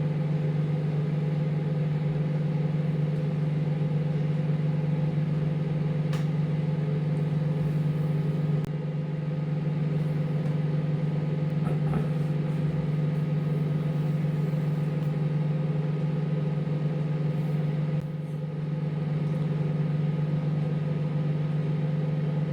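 Microwave oven running while it heats a bowl of porridge: a steady low hum that dips briefly twice.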